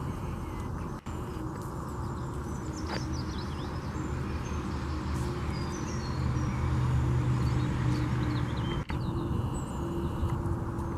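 Outdoor background of a steady low rumble with small birds chirping now and then; a low hum swells for a few seconds in the middle.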